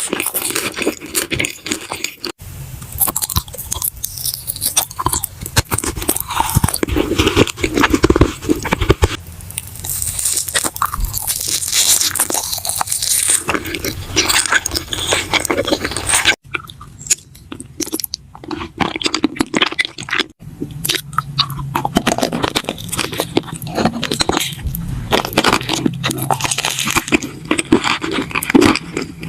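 Close-miked ASMR eating: a person biting and chewing crisp food, with dense, crackly crunches. The sound breaks off abruptly and resumes three times.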